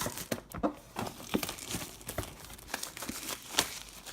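Plastic shrink-wrap being torn and pulled off a MacBook Pro box by hand, a dense run of irregular crinkles and crackles.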